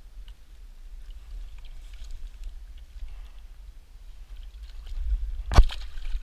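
Steady low outdoor rumble by a river, with faint scattered ticks and one sharp knock about five and a half seconds in.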